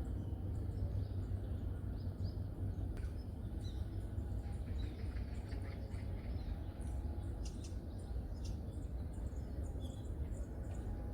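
Wild birds giving scattered short chirps and calls, many brief high notes with no regular rhythm, over a steady low background rumble.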